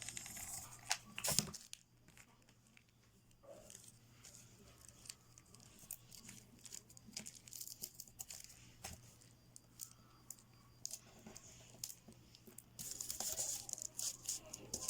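Cellophane crinkling and crackling as it is wrapped around a small cardboard piece and stuck down, in scattered bursts. It is busier in the first couple of seconds and again near the end, with a quieter stretch in between.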